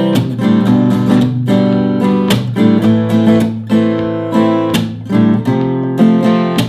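Acoustic guitar strumming chords in a steady eighth-note pattern, with a quick sixteenth-note double stroke and percussive muted scratch strokes on beats 2 and 4.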